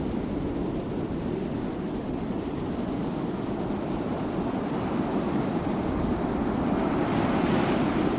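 Sea waves washing onto the shore: a continuous rush of surf that swells a little louder near the end as a wave comes in.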